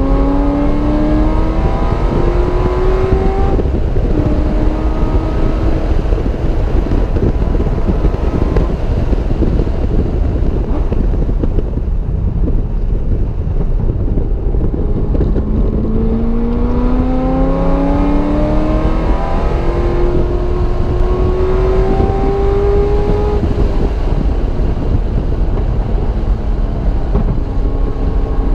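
Car engine heard onboard, accelerating hard with its pitch rising, shifting up once a few seconds in and then easing off; a second hard acceleration with another upshift begins about halfway through. Steady wind and road noise sit under the engine throughout.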